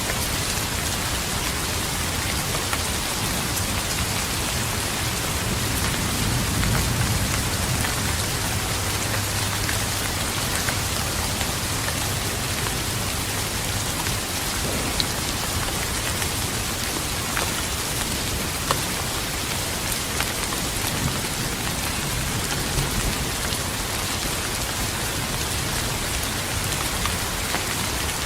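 Steady rain with scattered sharp drop impacts. A low rumble of distant thunder swells from about six seconds in and fades a few seconds later.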